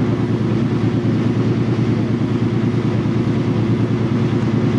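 Car engine idling: a steady low engine rumble that holds even throughout.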